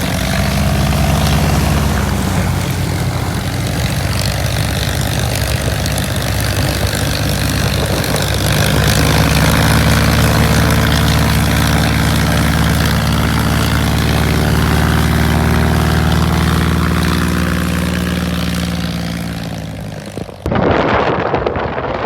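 Propeller-driven light aircraft engine running loud and steady as it flies past, its pitch dropping near the end as it draws away. Close to the end the sound cuts abruptly to a rougher rush of engine noise and wind.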